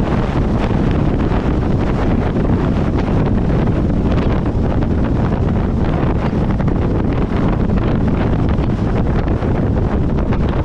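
Wind buffeting the microphone: a loud, steady rumble with no clear tone.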